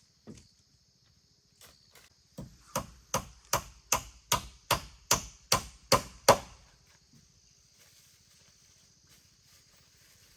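A tool striking wood in a quick, even series of about ten blows, starting a couple of seconds in, growing louder, with the last blow the loudest.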